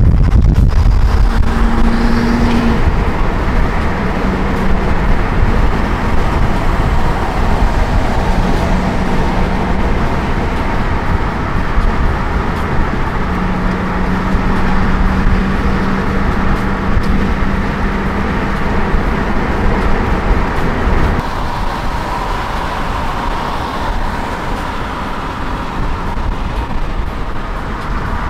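Car driving on the road: steady engine and road noise, strongest in the low end, easing off slightly about two-thirds of the way through.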